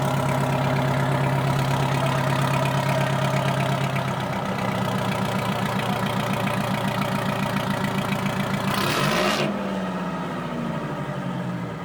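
Vintage tractor engine idling steadily. About nine seconds in there is a short hiss, after which the engine note drops lower and quieter.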